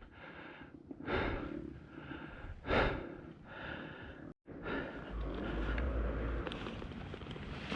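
A rider breathing hard after a steep climb: a few loud puffing breaths in the first four seconds, then a steadier rush of noise with a low rumble of wind on the helmet camera's microphone.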